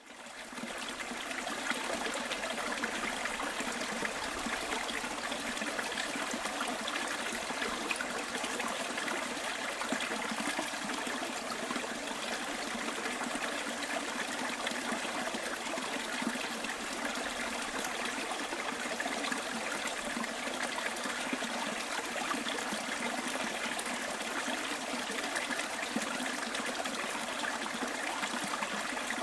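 Stream water flowing and trickling steadily, fading in over the first second.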